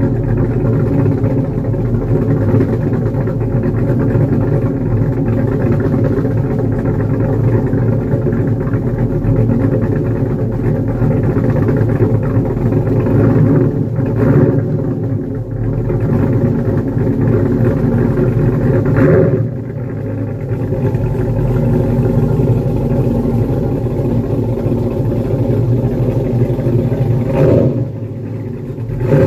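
Pontiac G8 GT's cammed 6.2 L LS3 V8 running steadily through long-tube headers and an X-pipe exhaust, a deep rumbling idle. The note briefly rises and falls a few times, in the middle and again near the end.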